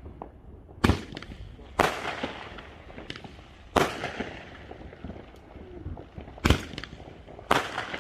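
Fireworks going off: five sharp bangs at irregular gaps of one to three seconds, each trailing off.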